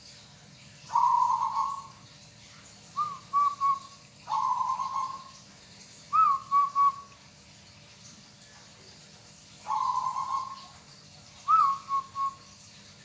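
Zebra dove (perkutut) cooing: three times a longer rolling coo, each followed by three quick clipped notes, repeated at an even pace.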